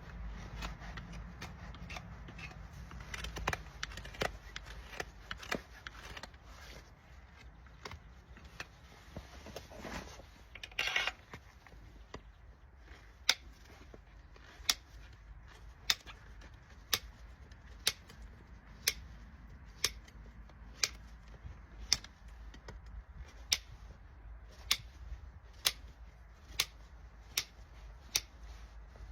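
Farrier's hand tools working on a horse's hoof: irregular clicks and a brief scrape, then sharp single strikes or cuts about once a second through the second half.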